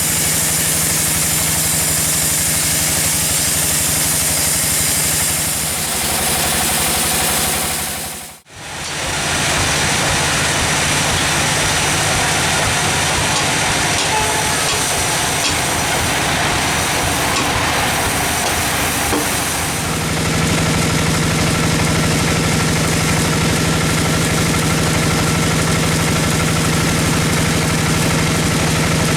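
Sawmill engine running steadily, the sound dipping out and back in briefly about eight seconds in.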